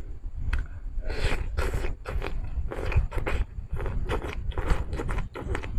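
Close-miked chewing of Korean noodles: an irregular run of short, wet mouth noises, two to three a second.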